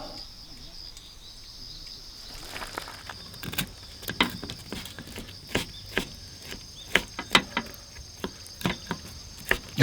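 Crickets chirring steadily in a high, even drone, with scattered sharp clicks and pops over the second half.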